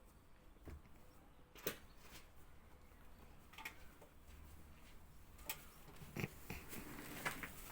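Faint, scattered clicks and small rustles from small pet animals moving about and feeding, a few soft taps spread over several seconds.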